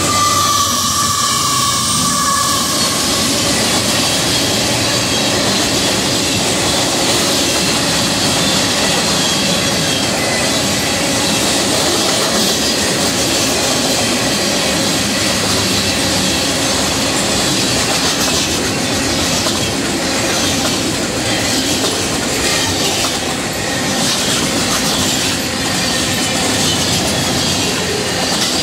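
Fast-moving freight train cars passing close by, a steady loud noise of steel wheels running on the rails. A brief high squeal sounds over it in the first couple of seconds.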